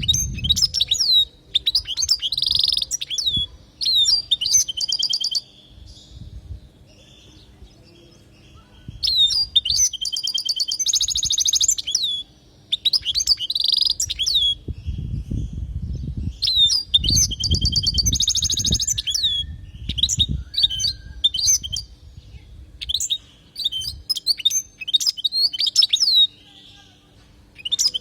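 European goldfinch (Carduelis carduelis) singing: bright, rapid phrases of twittering, sharply falling notes and buzzy trills, broken by a few short pauses.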